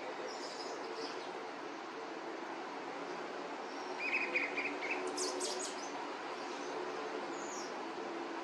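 Birds calling over a steady low background hum. Faint high chirps come first, then a quick rattling series about four seconds in, a burst of thin high notes just after, and a short falling note near the end.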